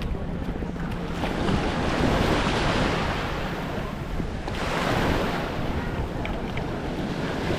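Small waves washing up on a sandy beach, swelling twice, about a second in and again about halfway through, over a steady low rumble of wind on the microphone.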